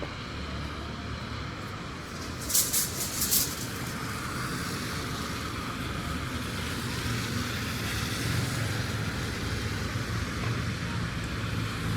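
Road traffic noise, with a vehicle's engine hum growing louder in the second half. A quick run of four or five sharp clicks comes about two and a half seconds in.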